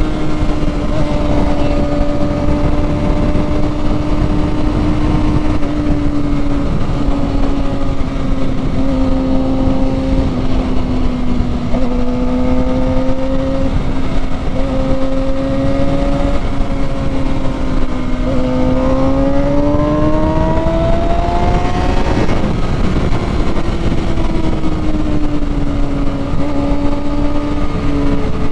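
Sport motorcycle engine heard from on board, running at high revs under a steady throttle, with heavy wind noise on the microphone. The engine pitch sags slightly, climbs for a few seconds about two-thirds of the way through, then drops back.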